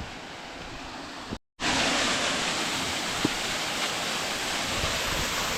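Steady rush of falling water from a waterfall, faint at first; after a brief dropout to silence about a second and a half in, it comes back much louder and close.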